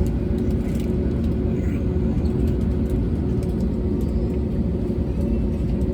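Steady low rumble inside the cabin of an Airbus A320neo with Pratt & Whitney geared turbofan engines, with a constant hum of a few steady tones over it.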